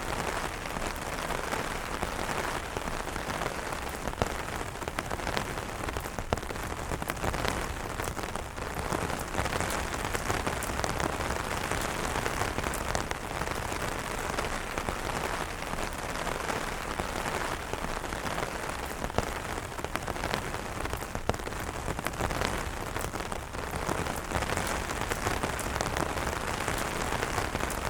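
Steady rain falling on umbrellas: a dense, even hiss of many drops, with individual drop taps standing out here and there.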